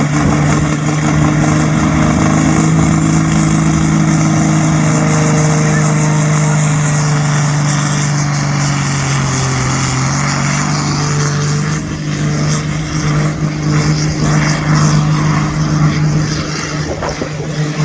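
Engine of a competition pulling tractor running hard at high, steady revs during a pull, with a rougher, more uneven stretch about two-thirds of the way through.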